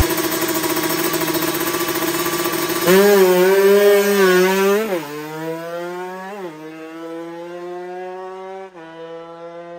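Two-stroke Kawasaki Ninja drag bike held on high revs at the start line, then launching about three seconds in and shifting up three times, with the pitch dropping at each shift and climbing again. It fades as the bike runs off down the strip.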